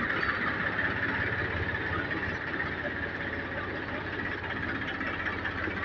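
Tractor engine running steadily, driving a tractor-mounted spray pump that has just been switched on.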